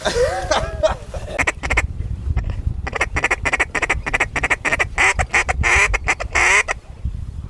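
Duck quacking: a fast run of short, clipped quacks and chatter from about a second and a half in until near the end, over a steady low rumble.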